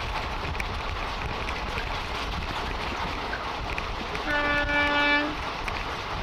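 Steady running noise of an Indian Railways train heard from on board, with a single steady horn blast of about a second near the end.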